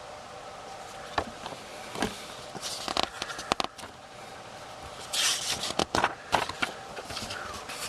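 Pages of a picture book being handled and turned: papery rustles and light knocks in two bursts, a few seconds apart. A steady faint hum runs underneath.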